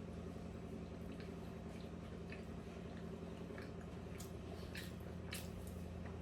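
Faint wet mouth sounds and soft clicks of someone eating a momo, over a steady low hum. A few sharper clicks come about two-thirds of the way through.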